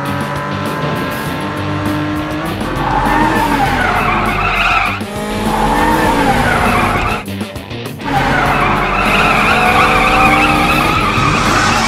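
Cartoon race-car sound effects: engines running with tires squealing in two long wavering screeches, one about three seconds in and another from about nine seconds on.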